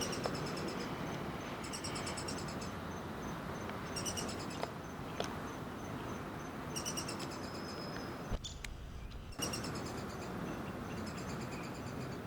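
Juvenile downy woodpecker calling: short bouts of rapid high chirps, repeated every one to two seconds, over a faint steady high insect trill.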